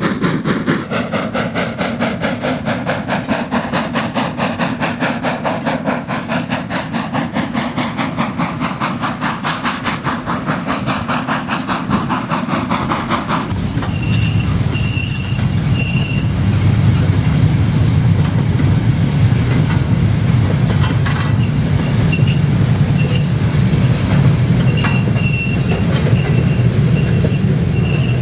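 A steam locomotive working a train, its exhaust beating fast and evenly. About halfway the sound changes abruptly to the low rumble of rolling wheels on track, with short high-pitched wheel squeals coming and going.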